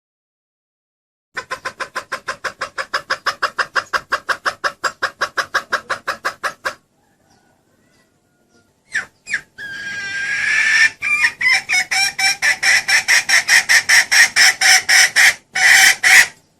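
Junglefowl hen calling in two runs of fast clucks, about six a second; the second run opens with a longer drawn note about ten seconds in.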